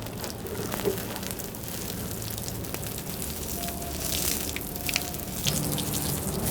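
A fire being put out with water: a steady hiss and sizzle with scattered crackles.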